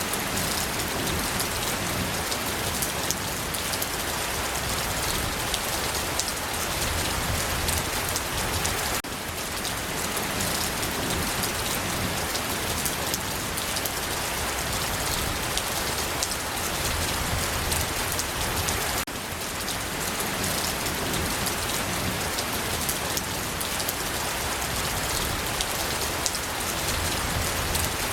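Steady rain falling, a dense even patter of raindrops on a surface. The level dips slightly and briefly twice, about 9 and 19 seconds in.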